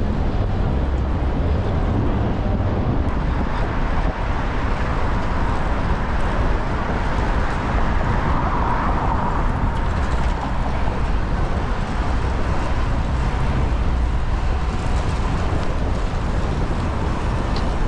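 Steady city street traffic noise with a low wind rumble on the microphone, as heard from a moving bicycle.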